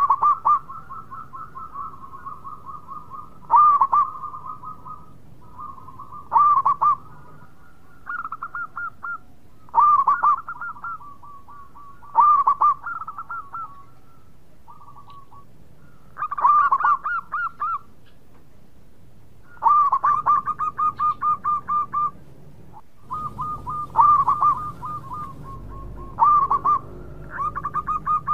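Zebra dove (perkutut) cooing in repeated phrases, each a loud opening note followed by a quick run of short, even coos. The phrases come every two to three seconds.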